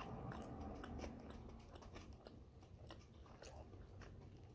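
Faint close-up chewing of a bite of bagel topped with chickpea salad, mouth closed, with small scattered clicks of the mouth and teeth.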